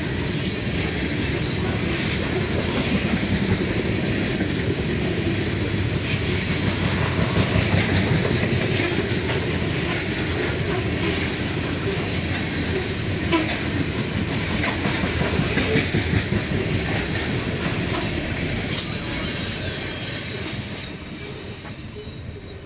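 Covered grain hopper cars of a long freight train rolling past close by: a steady rumble with wheels clicking over the rail joints. It fades away near the end as the last car goes by.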